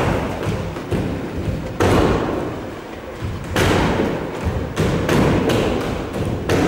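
Heavy thumps at irregular intervals of one to two seconds, each with a short ringing tail.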